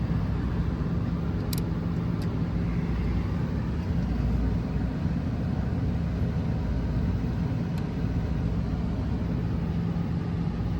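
Trane rooftop package air-conditioning unit running with a steady low mechanical hum. Two faint clicks come about one and a half and two seconds in.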